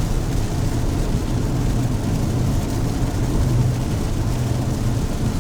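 Steady drone of a car's engine and tyres heard from inside the cabin while driving.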